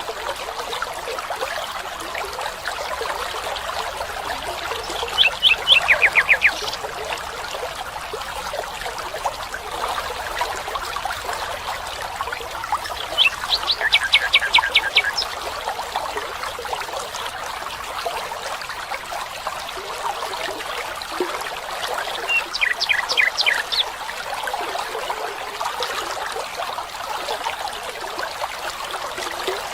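Water trickling steadily, with a bird singing a quick run of rapid, falling notes three times, each lasting a second or so.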